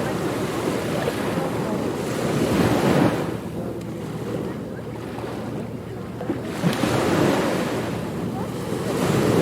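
Ocean surf on a beach, waves rolling in and washing up the shore. The surge swells to louder peaks about three seconds in and again near the end.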